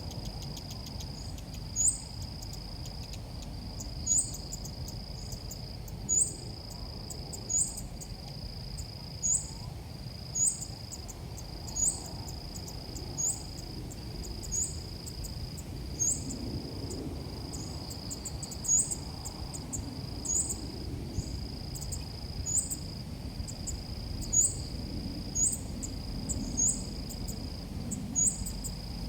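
Ốc mít bird calls: short, high, rising chirps repeated about once every second or so. Under them runs a steady high-pitched insect-like trill that breaks off and resumes every second and a half.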